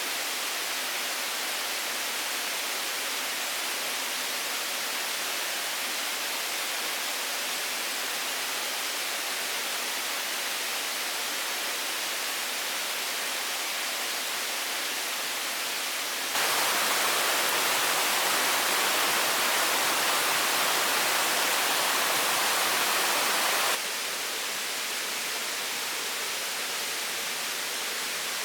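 A steady, even hiss with no distinct events, stepping up suddenly to a louder level for about seven seconds in the middle and then dropping back just as suddenly.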